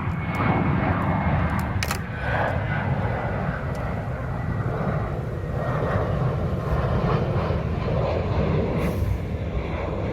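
Old Daedong power tiller's single-cylinder diesel engine running steadily, with a sharp click about two seconds in.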